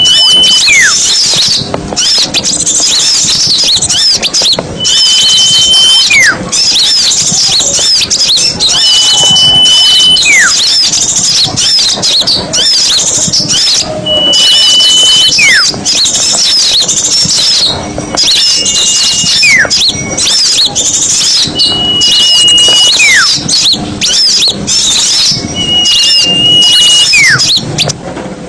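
Bird-lure recording of small songbirds: a busy chorus of high chattering and twittering calls. Through it, seven times at about four-second intervals, comes a call made of a held high note and then a quick falling whistle.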